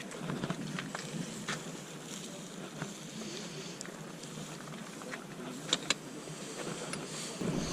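Steady outdoor background noise with scattered light clicks and knocks, two sharper clicks a little over halfway through.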